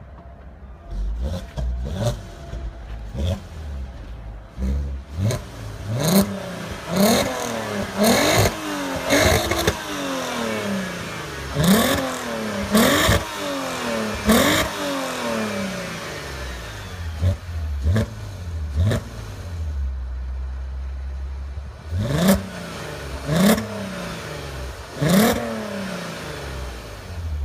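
VW Golf 5 R32's 3.2-litre VR6 engine being free-revved at standstill: over a dozen short blips, each climbing sharply in pitch and falling back to idle, with sharp cracks at several peaks. It settles to a steady idle for a few seconds near the end before three more blips.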